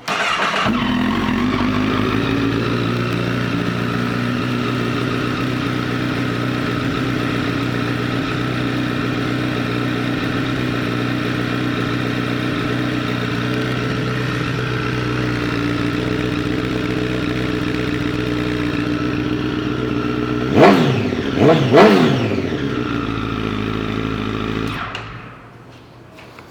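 A 2008 Honda CBR1000RR's inline-four engine, breathing through an aftermarket Two Brothers exhaust, starts and settles into a steady idle. Near the end it is revved quickly three times, then shut off.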